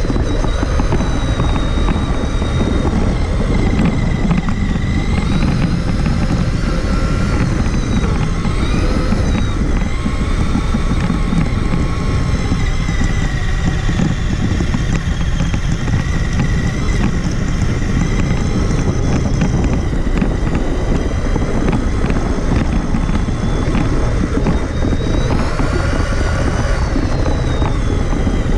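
Electric motor and gear drivetrain of a Traxxas Summit RC truck whining, its pitch rising and falling with the throttle, over a heavy rumble.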